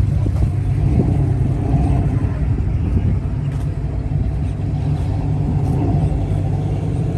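Dodge Durango SRT Hellcat's supercharged V8 running at low revs, a steady deep rumble with no revving.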